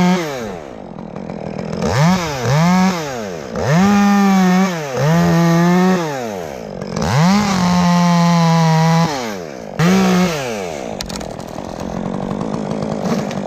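Chainsaw engine run in about seven short full-throttle bursts, its pitch climbing quickly, holding and falling back between them. It drops to a lower, steadier running note for the last couple of seconds.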